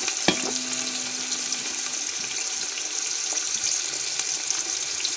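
Sliced onions and dried fenugreek leaves (kasuri methi) sizzling in hot oil in a pan: a steady hiss, with one sharp knock about a third of a second in.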